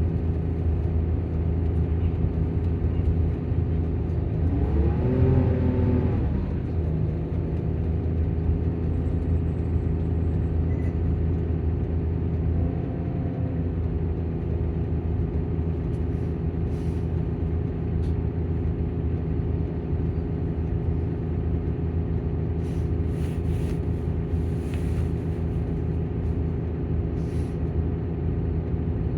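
Volvo bus engine running with its engine cooling fan going: a steady low hum. The pitch swells up and back down about five seconds in, and more faintly around thirteen seconds.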